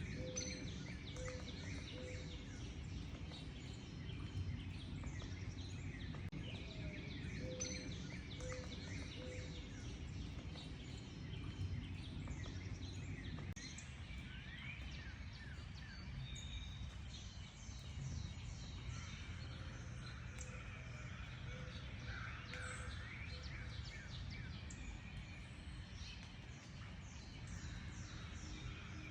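Several wild songbirds chirping and singing at once, over a steady low rumble. A lower call of three or four evenly spaced notes repeats a few times.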